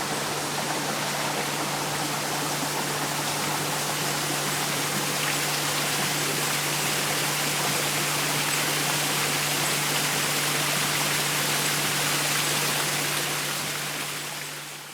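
Running water from a garden stream or small waterfall: a steady rushing hiss with a low steady hum underneath, fading out near the end.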